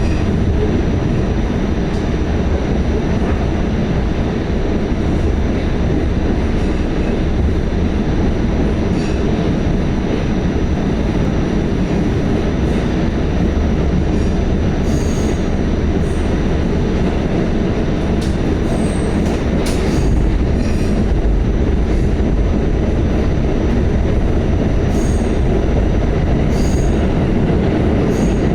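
Pullman-Standard R46 subway car running at speed: a steady, loud rumble of steel wheels on the rails. Thin high wheel squeals come and go, with scattered clicks over rail joints.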